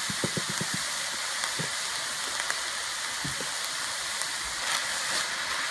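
Ground beef, mushrooms and onions sizzling steadily in a frying pan. In the first second a quick run of evenly spaced soft taps stops, as ground cumin is shaken from a spice jar over the pan.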